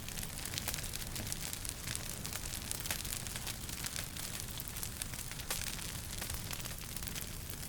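Wood fire crackling in a fireplace: many small irregular pops and snaps over a steady hiss and low rumble.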